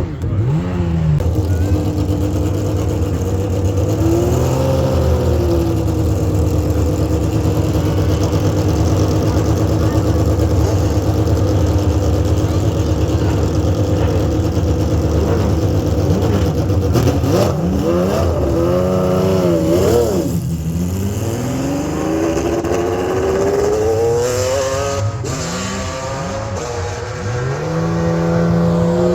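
A car engine running and being revved: its pitch climbs and settles a few times, with a run of quick throttle blips in the second half.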